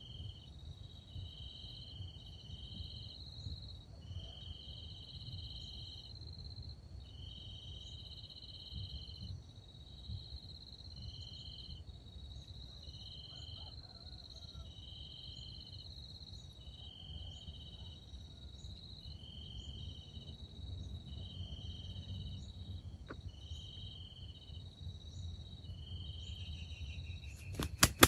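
Crickets chirping: one holds a steady high trill while another chirps about once a second, over a faint low rumble.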